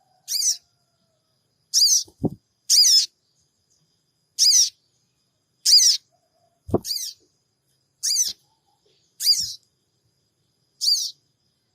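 Sogon bird giving short, high-pitched 'cingik' calls, nine in a row at roughly one-second intervals, as a lure to make other sogon birds answer. Two soft low knocks come between the calls, a little after two seconds and again near seven seconds.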